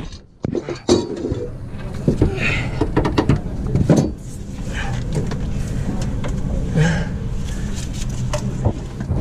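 Metal clanks and knocks of tools and heavy parts being handled, irregular and scattered through, over a steady low hum.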